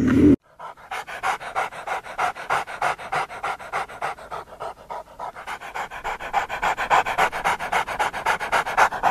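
A low animal growl cuts off suddenly about half a second in. A dog then pants fast and evenly, about six quick breaths a second, louder toward the end.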